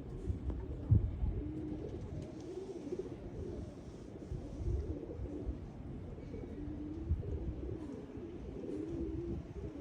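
Domestic pigeons cooing, several low wavering coos overlapping. A few low thumps in the first second, the loudest about a second in.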